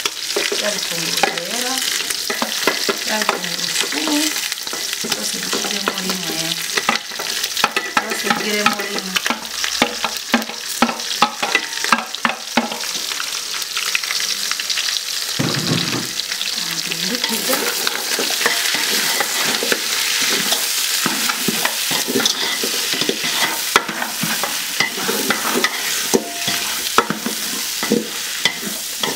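Chopped onions and green pepper frying with browned beef shank in an aluminium pot, sizzling steadily while a wooden spatula stirs and scrapes them, with frequent clicks of the spatula against the pot. A dull thump comes about halfway through.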